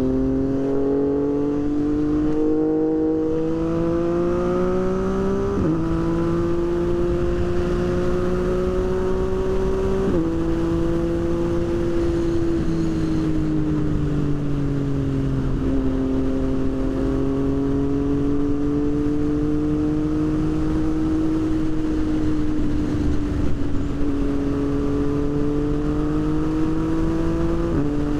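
Motorcycle engine running steadily under way, its pitch drifting up and down and jumping a few times, over wind and road noise.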